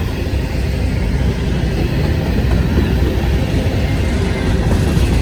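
Train passing close by, a loud steady low rumble of locomotive engines and rolling wheels.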